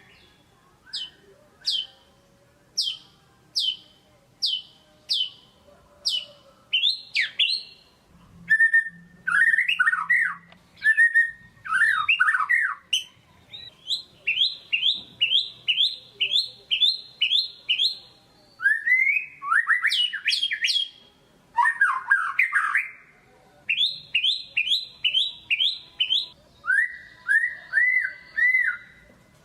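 White-rumped shama (murai batu) singing loudly: first a series of sharp downslurred whistles about one a second, then varied phrases and fast runs of repeated notes, about four a second.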